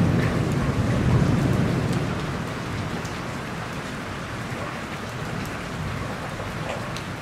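Steady rain falling, with a low rumble of thunder dying away over the first two seconds.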